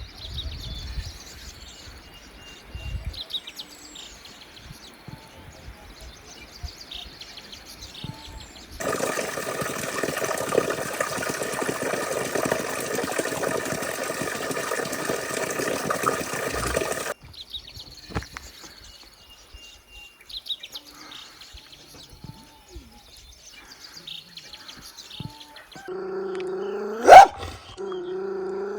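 Birds chirping, cut across for about eight seconds by a dense rushing noise that starts and stops abruptly. Near the end comes an animal's pitched call with a loud rising cry.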